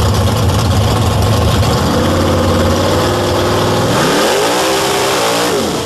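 Muscle car engine running hard at high revs during a burnout, with a loud hiss of noise over it; near the end it revs up once and drops back, then cuts off suddenly.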